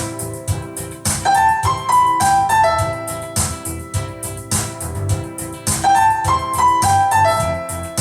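Keyboard music: a piano or electric-piano melody over bass and a steady beat, with a short melodic phrase that repeats about every five seconds.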